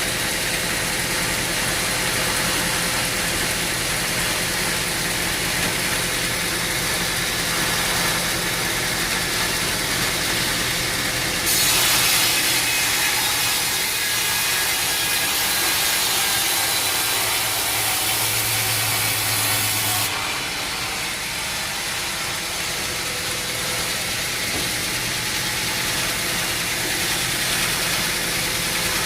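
Sawmill machinery running steadily. For about eight seconds in the middle it grows louder and hissier, as a saw cuts through an oak log, then drops back to steady running.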